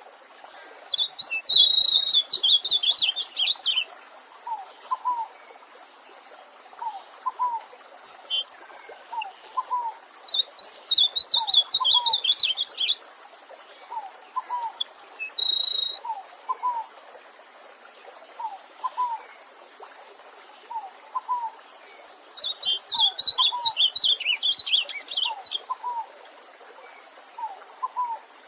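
Songbirds singing over a running stream. There are three bursts of rapid, high, trilled song, each about three seconds long, coming near the start, in the middle and near the end. Throughout, a short low note repeats about once a second.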